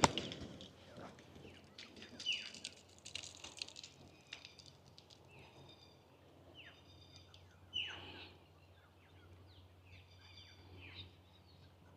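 Birds calling: short notes sweeping downward in pitch, repeated every second or two, with higher chirps among them. A single sharp click right at the start.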